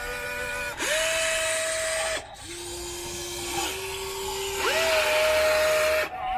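Remote-control hydraulic excavator's electric pump motor whining. It holds a high pitch, drops lower for a couple of seconds, then rises back up before cutting off.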